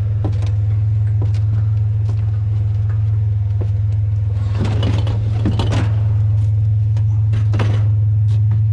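Pickup truck engine running with a steady low drone, with scattered short clicks and knocks over it, a cluster of them about halfway through and again near the end.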